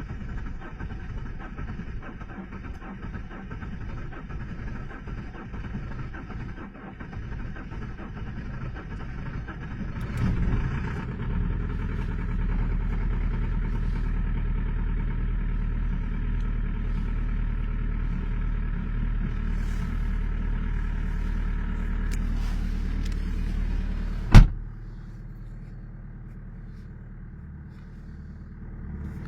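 BMW 320d four-cylinder diesel engine running after a cold start at −20 °C. The sound gets louder about ten seconds in and stays steady. A single sharp knock, the loudest sound, comes near the end, and the sound is quieter after it.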